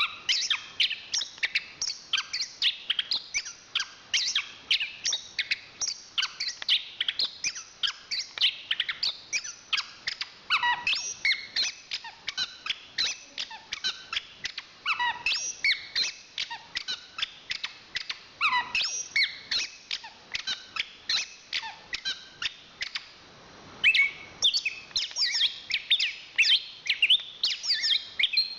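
Chestnut-capped thrush (anis kembang) singing a fast, continuous song of quick high chirps and warbles, with one short break about three-quarters of the way through.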